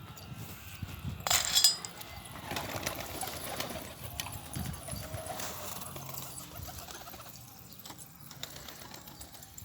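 Domestic pigeons stirring: a short, loud burst of wing flapping a little over a second in, followed by quieter scattered flutters and rustling.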